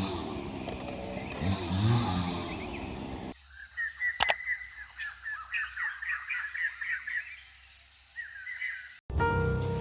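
A person snoring, a slow rumbling breath about every two seconds. After an abrupt cut, small birds chirp in quick rapid runs with one sharp click among them.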